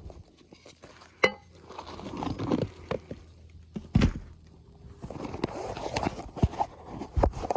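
Hand work on an asphalt shingle roof: scattered sharp knocks and stretches of scraping and rustling. One knock about a second in rings briefly, like metal striking metal.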